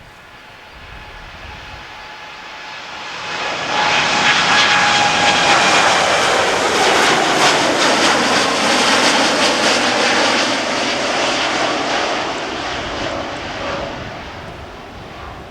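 Jet airliner taking off, its engines at takeoff thrust passing by: the noise builds over the first few seconds, stays loud with a whining fan tone through the middle, then fades near the end.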